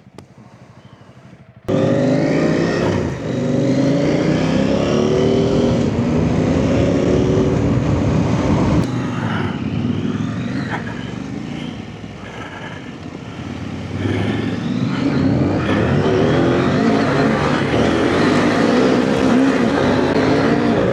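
Off-road motorcycle engine revving and pulling through the gears, its pitch climbing again and again. It comes in abruptly after a second or two of quiet, eases off for a few seconds in the middle, then picks up again.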